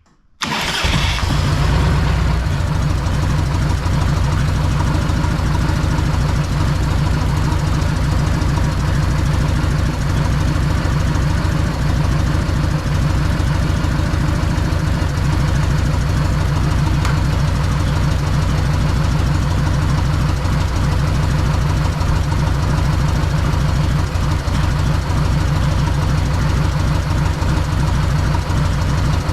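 Freshly rebuilt Harley-Davidson Evolution V-twin engine running steadily, cutting in abruptly about half a second in.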